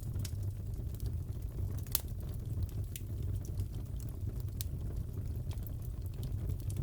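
Wood fire crackling in a fireplace: a steady low rumble with scattered sharp pops and snaps, the loudest about two seconds in.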